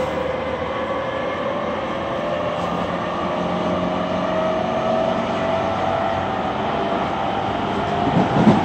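Running noise inside an E231 series 800 commuter train car: steady rumble with a traction-motor whine that slowly rises in pitch as the train gathers speed, and a couple of low knocks near the end.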